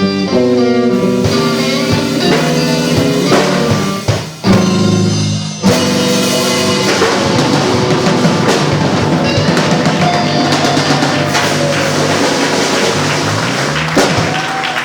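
Live band playing the closing bars of a slow blues: electric guitar and bass notes over the drums, then a long busy drum-and-cymbal roll building to the final hits.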